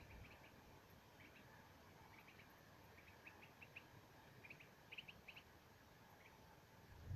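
Faint high chirping from a small bird, in quick clusters of two to four short notes repeated every second or so.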